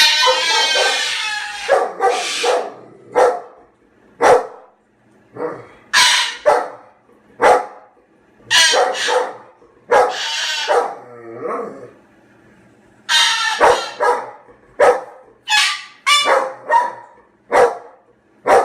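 Moluccan cockatoo giving a string of loud, harsh calls, about one a second, mostly short with a few longer drawn-out screeches.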